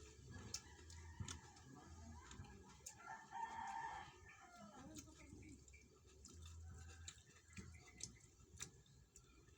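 A rooster crowing, loudest about three to four seconds in, with scattered faint clicks.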